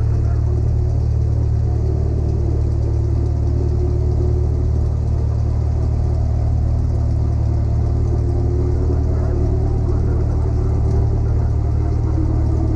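Cessna 172's piston engine and propeller running in a steady, loud drone with no change in power.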